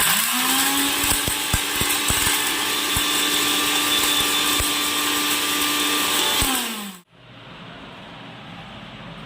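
Electric kitchen mixer grinder running: the motor spins up quickly, runs at a steady pitch for about six and a half seconds with a few clicks, then winds down and stops about seven seconds in.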